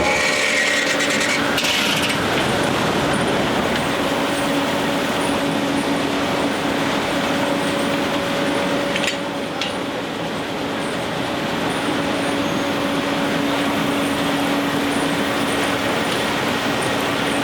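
Sawmill machinery running steadily: an even rushing noise with a low steady hum, and two brief clicks about nine seconds in.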